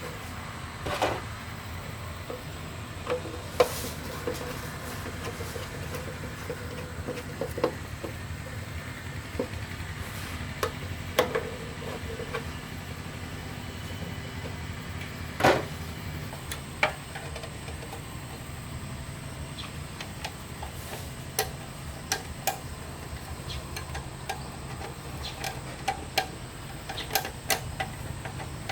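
Scattered clinks, taps and knocks of metal tools and engine parts being handled, a few with a short metallic ring, over a steady low hum.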